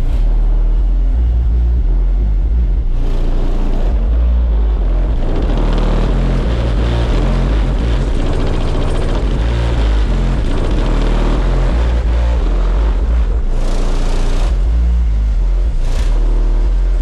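High-powered car audio system with a bank of subwoofers, run off 12 batteries and three alternators, playing bass-heavy music very loud. Deep bass notes shift in a steady rhythm and dominate the sound.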